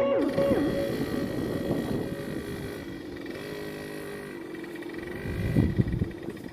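Suzuki RM 50 kids' motocross bike's small two-stroke engine running at low revs, its pitch sagging at first and then holding fairly steady, with a brief louder burst near the end.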